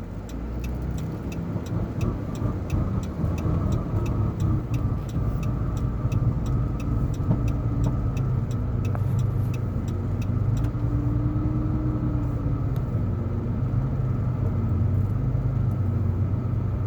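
Car engine and road noise heard from inside the car as it drives along, the engine pitch rising and falling gently. A regular ticking, about three clicks a second, runs through the first half and then stops.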